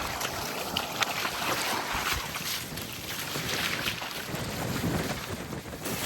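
Small waves washing and lapping on a sandy beach, with wind buffeting the microphone.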